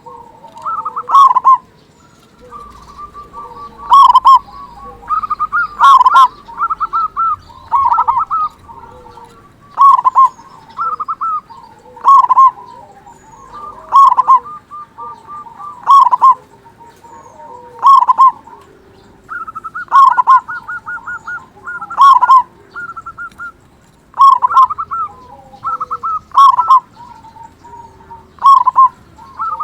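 Zebra dove (perkutut) cooing over and over, a loud phrase about every two seconds with softer quick notes between them.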